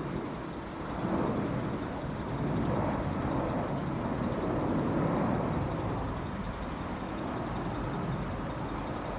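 Jet aircraft rumbling steadily overhead at a distance, swelling slightly towards the middle.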